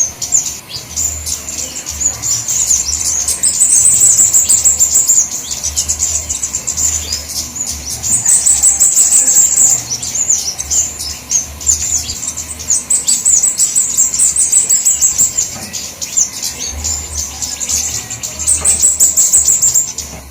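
Flowerpeckers chirping fast and high-pitched, many calls overlapping in busy bursts of a second or two: a bird-trapping lure recording meant to draw in small birds.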